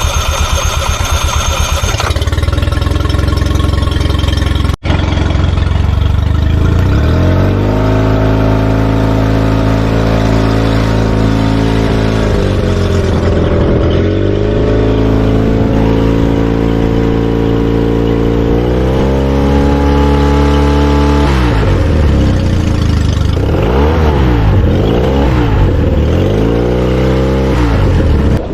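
Tohatsu 20 hp four-stroke outboard motor running just after its oil change: it idles, then the throttle is raised and held a few seconds in, eased off and raised again, and near the end it is revved up and down several times in quick succession.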